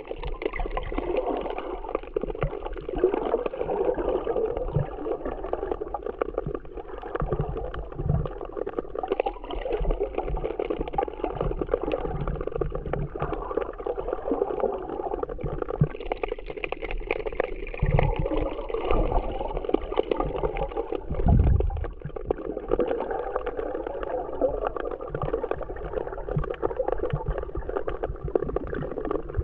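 Muffled seawater sloshing and gurgling as heard by a camera underwater, with irregular low thumps, the strongest about two-thirds of the way through.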